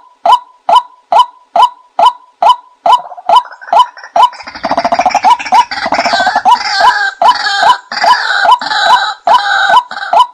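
A short, sharp bird call repeated evenly about twice a second. From about four seconds in, a burst of harsher, chattering bird calls rises over it, then thins out near the end.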